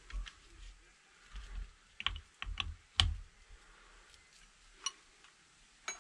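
A few scattered light clicks and knocks of metal hand tools being handled, with a sharper knock about three seconds in.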